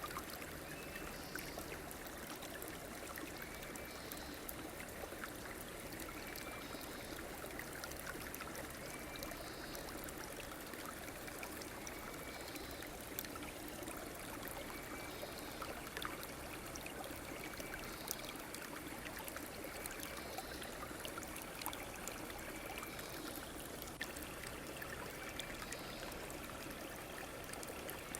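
Stream water flowing steadily. A short, high call repeats every two to three seconds over it.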